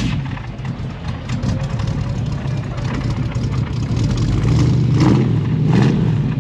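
Car engine running at idle, growing louder from about four seconds in, with two brief surges near the end.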